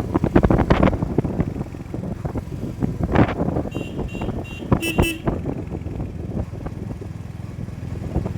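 Wind buffeting and road noise on a moving motorcycle, with a vehicle horn honking about four seconds in: three short toots, then a slightly longer one.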